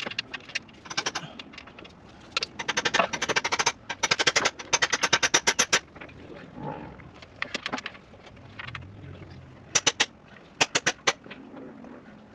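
Hand ratchet wrench clicking in quick runs as it is worked on engine fasteners during a timing-chain job: two runs of rapid clicks, the second longer, then a few scattered clicks near the end.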